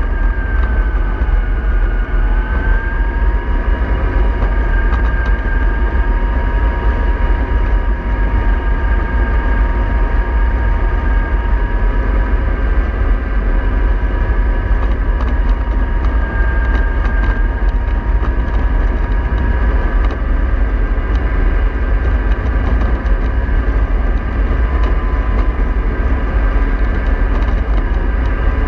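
Remote-controlled model bus on the move: a steady low rumble under a steady motor whine, whose pitch dips briefly and comes back up about two seconds in.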